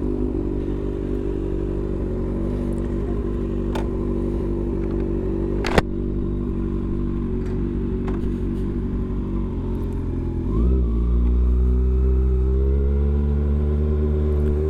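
Kawasaki ZX-6R 636's inline-four engine idling steadily, with a sharp click about six seconds in. About ten seconds in it gets louder as the bike pulls away, the engine note slowly rising.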